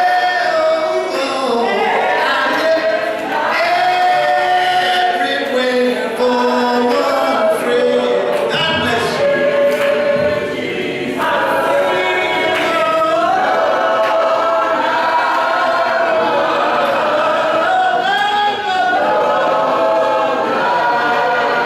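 Church congregation singing together a cappella, voices only, in several parts with long held notes.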